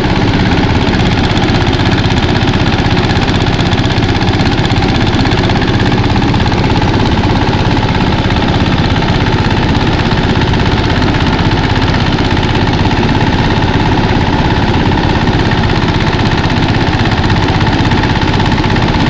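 Mini rice thresher running steadily under load, its engine and threshing drum going without a break as rice stalks are fed in.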